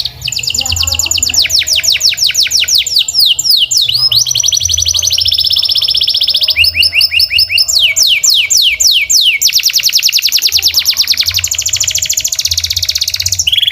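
Domestic canary singing a continuous song of rapid trills, each a fast run of one repeated high note, switching to a new trill every second or two, with stretches of slower downward-sweeping notes a few times a second.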